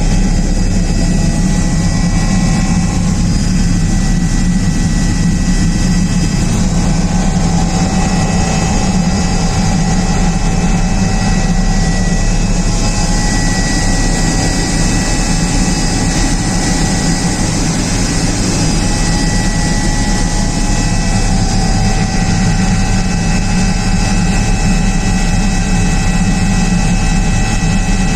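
Twin-turbine Airbus H145 helicopter running: a loud, steady drone of engine and rotor noise with a few steady high whining tones over it.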